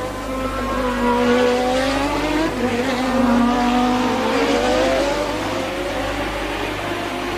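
1988 Formula One race cars at high revs, the engine note falling and rising in pitch as they brake and accelerate through the corners.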